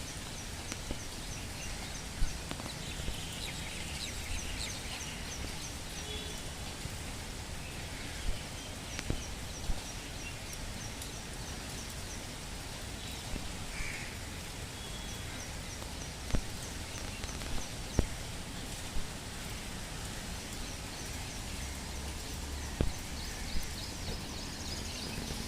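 Steady monsoon rain hiss with scattered louder drips and knocks, and short repeated runs of high, quick chirps over it.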